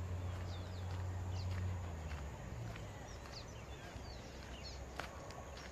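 Small birds chirping in many short, quick calls, over a low hum that fades away after about two seconds. A single click about five seconds in.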